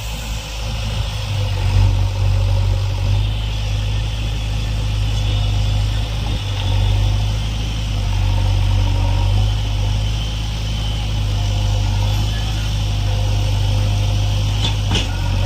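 JCB backhoe loader's diesel engine running steadily, with a brief knock near the end.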